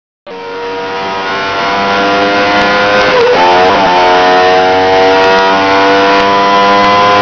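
Car engine accelerating, growing louder over the first couple of seconds, its pitch slowly rising with a brief dip and recovery about three seconds in. It starts and cuts off abruptly.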